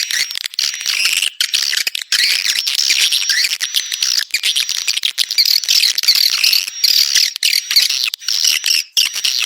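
Swiftlet calls: loud, dense, continuous chirping and twittering with a thin steady high tone running through it, broken by brief gaps. This is the kind of swiftlet call recording played to lure swiftlets into a nesting house.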